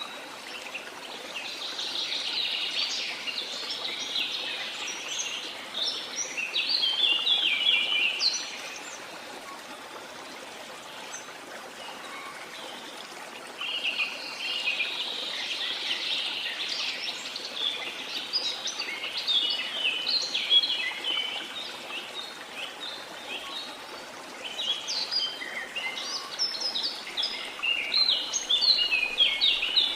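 Rainforest ambience: birds chattering and chirping in three long bouts over a steady hiss of rain.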